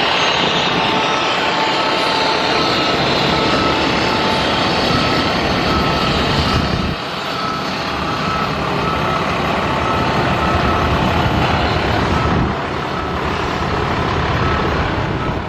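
Heavy truck engine running loudly, with a back-up alarm beeping at a steady, even rhythm over it.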